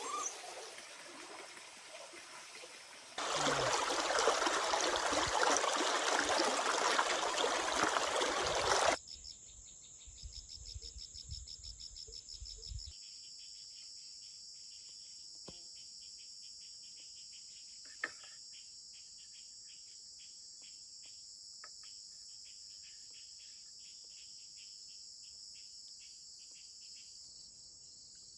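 A loud rushing noise lasts about six seconds, then insects chirr in a steady, high pulsing chorus for the rest of the time, with one sharp click partway through.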